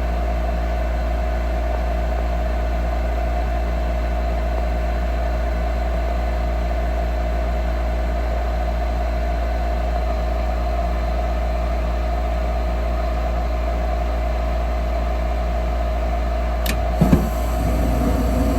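Gas furnace blower fan running on with a steady hum while the shut-down furnace cools. About a second before the end there is a sharp click followed by a couple of knocks.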